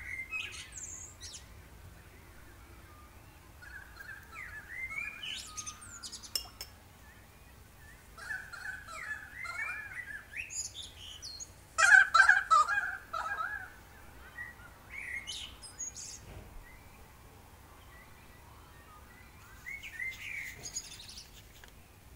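Birds chirping and singing in scattered short bursts, the loudest burst about twelve seconds in.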